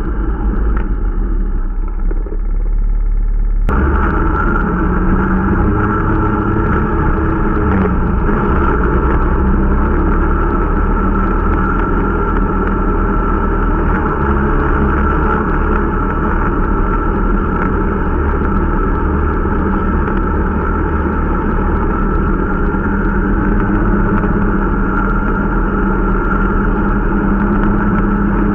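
Irbis Dingo T125 snowmobile's small 125 cc engine running under way during break-in riding, at a fairly steady pitch with a few small rises and falls. About four seconds in, the sound changes abruptly and becomes brighter.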